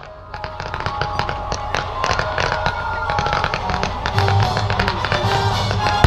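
Aerial fireworks crackling in a rapid, dense run of small sharp cracks that grows louder, over a music soundtrack.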